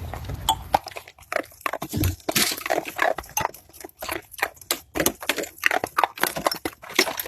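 Animal noises: a quick, irregular run of short, harsh sounds with a heavier, lower one about two seconds in.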